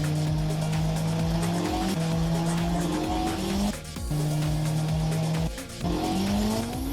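A racing-car engine sound over background electronic music with a steady beat. The engine holds a steady note, then rises in pitch and cuts off abruptly, twice, like shifting up through the gears.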